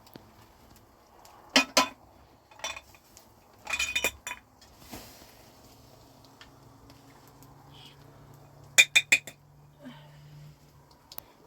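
Dishes and cutlery clinking together as they are handled: a few sharp clinks, a rattling cluster about 4 s in and four quick clinks about 9 s in.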